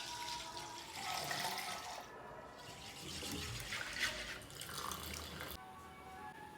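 Liquid pouring and splashing, stopping about a second before the end.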